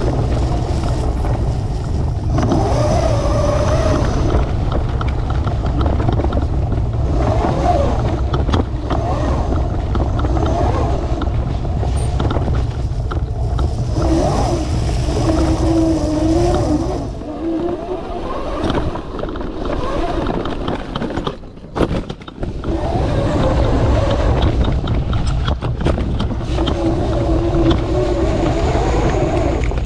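72V-modified Razor MX650 electric dirt bike being ridden on a trail: the motor whine rises and falls with speed over heavy wind rumble on the microphone. It eases off and drops away briefly about 18 to 22 seconds in, then picks up again.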